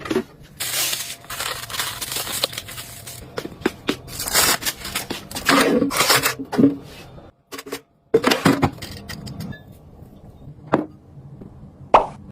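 Household items being handled: a string of irregular clicks, knocks, scrapes and rustles, broken by a brief silence a little past the middle.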